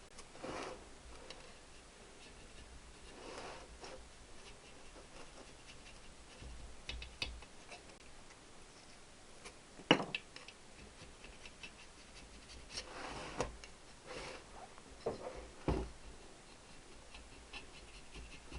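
Old gasket being scraped off a Triumph T120R cylinder barrel: short, scattered scraping strokes with light clicks between them, and one sharp knock about ten seconds in.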